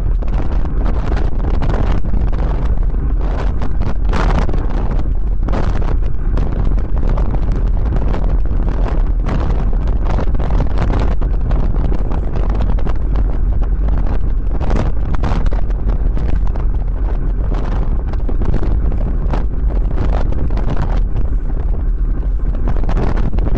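Wind buffeting the microphone of a camera carried on a moving bicycle: a loud, steady rumble of wind noise that rises and falls in gusts.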